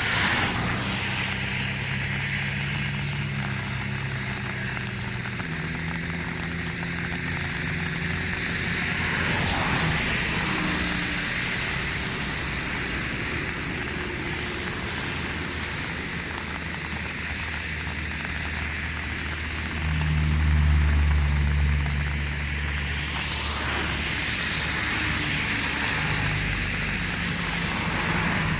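A motor vehicle's engine running steadily, its pitch stepping a few times and growing louder for a couple of seconds about two-thirds of the way through, over a continuous hiss.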